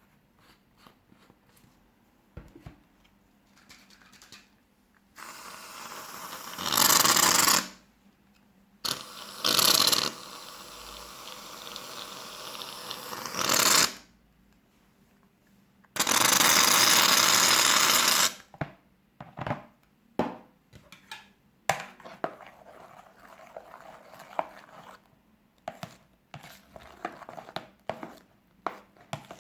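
Aerosol shaving foam hissing out of its can in long bursts, the last an even two-second spray, followed by a run of short sticky clicks and squelches as the foam and glue are stirred.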